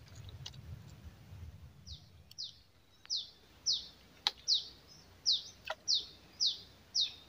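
A small bird calling a regular series of short, falling chirps, about two a second, starting about two seconds in. A few sharp clicks fall among them.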